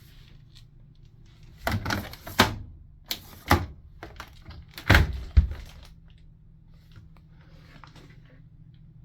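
A series of knocks and thuds, in three clusters between about two and five and a half seconds in, with the loudest near the end: cabinet or closet doors in an RV bedroom being opened and shut.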